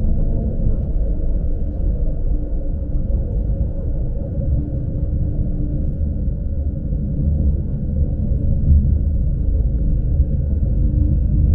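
Low, steady rumble of a Lastochka commuter train running, heard from inside the passenger car, with a faint steady hum above it.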